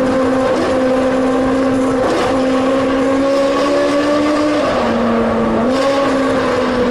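Sports car engine and exhaust running at steady revs with a loud, even note. The pitch drops briefly a little past halfway and rises back about a second later.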